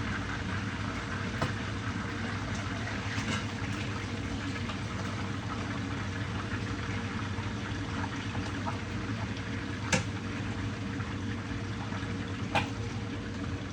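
Fish frying in hot oil in a pan: steady sizzling, with a low steady hum underneath and a few sharp knocks, the loudest about ten seconds in.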